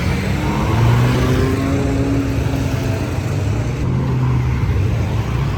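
A group of high-end sports cars driving past on a street, their engines rising in pitch as they accelerate during the first couple of seconds.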